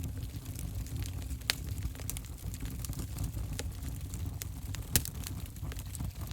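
Wood fire burning in an open fireplace: a steady low rumble of flames with scattered crackles and pops, the sharpest snaps about one and a half seconds in and near five seconds in.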